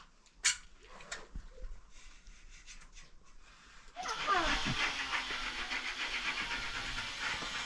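A few sharp clicks in the first second, then about four seconds in a loud, steady noise starts suddenly and keeps going, with a brief voice-like sound over its start.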